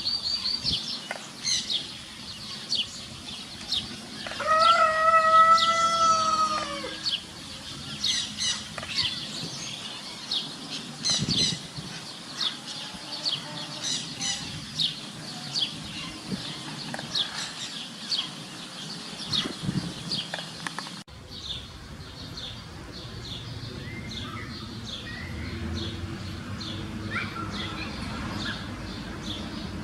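Soft bill-clattering of an adult white stork at its nest, among repeated short small-bird chirps, with one long crowing call, like a rooster's, from about four to seven seconds in.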